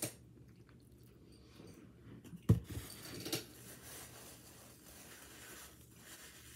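Close-up chewing and mouth sounds of a man eating, with a sharp thump about two and a half seconds in and a smaller knock shortly after.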